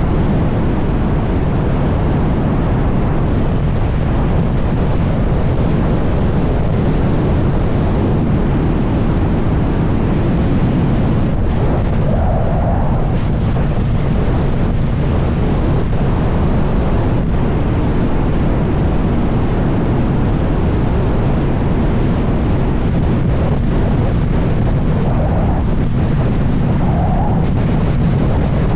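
Wind rushing over the microphone on a moving Kawasaki ZX-6R, with the bike's inline-four engine running underneath at a steady pace.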